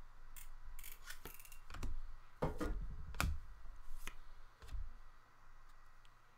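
Trading card pack and cards being handled: a series of irregular sharp snips, flicks and rustles of cards and wrapper.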